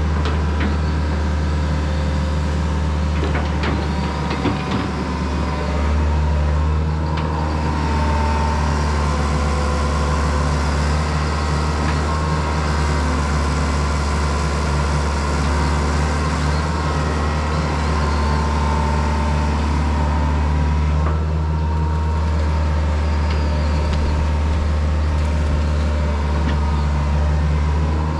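Diesel engine of heavy earthmoving equipment running steadily, with a strong low hum, and a few short clanks about three to five seconds in.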